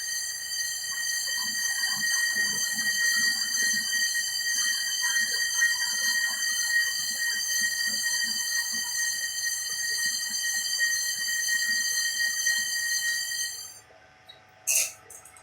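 Electric pork-skin cutting machine running with a steady high-pitched whine and faint irregular knocking underneath. The whine cuts off abruptly near the end, and a single sharp click follows.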